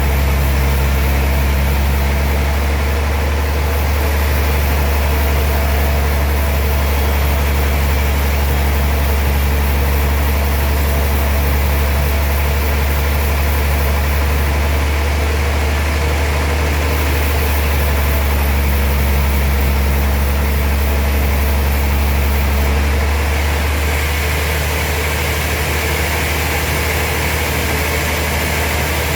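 Sawmill machinery running steadily: a loud, deep hum with a layer of hiss, easing slightly a little over 20 seconds in.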